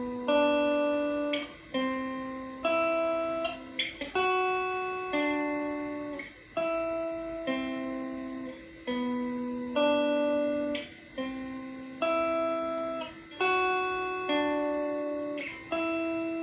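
Clean electric guitar played through its middle pickup, a Fender Pure Vintage '65 single-coil, with room reverb. It plays chords, striking a new one about every second and letting each ring and fade.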